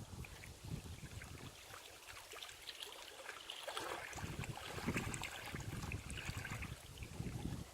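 Wind blowing over a reservoir and buffeting the microphone in uneven gusts, with a light crackling patter rising about halfway through.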